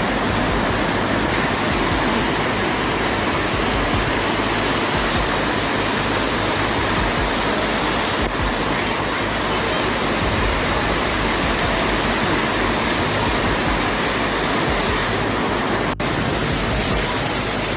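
Steady, loud rushing noise of typhoon-force wind, with an abrupt cut about sixteen seconds in.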